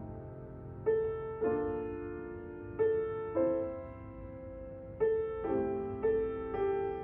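Slow, gentle solo piano music. Chords are struck roughly every half second to second and a half, and each one rings and fades before the next.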